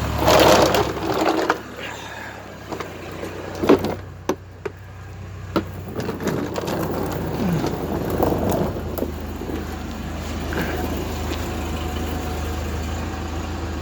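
Cummins diesel engine idling steadily. Over it come a burst of rustling at the start and a few sharp knocks about four to six seconds in.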